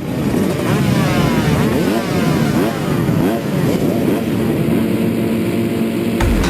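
Two-stroke motocross bike engine revving hard, its pitch climbing and dropping again and again as it accelerates and shifts.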